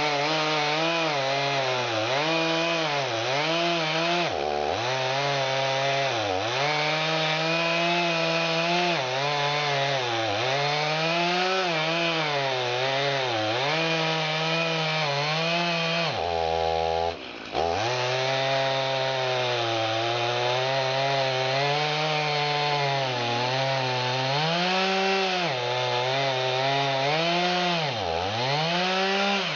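An engine running hard under changing load, its speed sagging and recovering every second or two, with several deep dips where it is pulled down almost to a stall.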